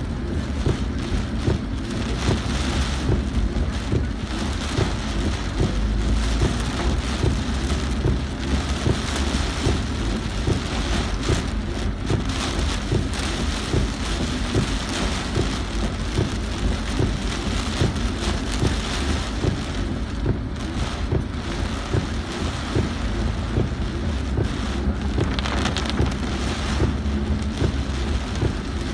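Heavy rain hitting a car's roof and windshield, heard from inside the moving car as a dense, steady patter of drops over a continuous low rumble of engine and road noise.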